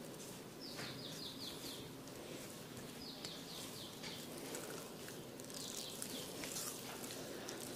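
A bird calling three times, each call a quick run of five or six short falling chirps, over a steady hiss of background noise with a few faint clicks.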